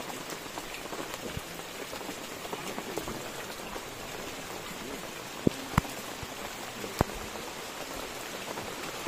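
Steady rain falling, an even hiss. About halfway through come three sharp taps, two in quick succession and a third a second later.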